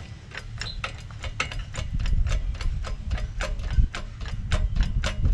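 Hoist ratchet clicking rapidly, about five or six clicks a second, as the engine hanging from it is raised a little.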